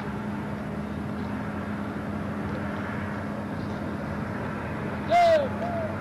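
Steady outdoor background noise with a low hum, broken about five seconds in by a single short, loud shout that falls in pitch.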